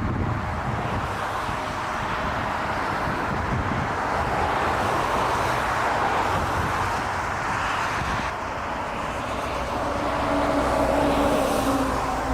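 Jet airliner engines on a landing approach: a steady rushing roar that swells slightly near the end, where a few steady engine tones come in.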